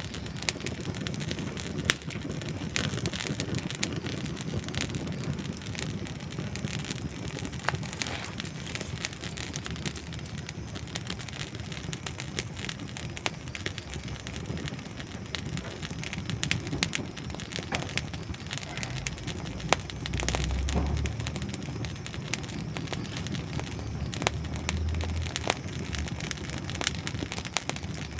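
Wood fire crackling and popping: a steady hiss of burning logs with many small, sharp snaps scattered irregularly throughout. Brief low rumbles come about twenty and twenty-five seconds in.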